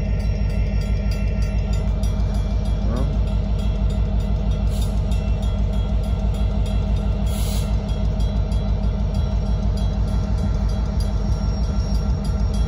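Union Pacific covered hopper cars of a freight train rolling past: a steady, loud rumble of steel wheels on the rails, with steady high-pitched tones above it. There are two short hisses, about five and seven and a half seconds in.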